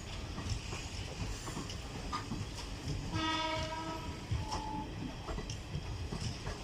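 Electric locomotive horn sounding one blast about a second long, some three seconds in, over the steady rumble and clatter of the train running on the track.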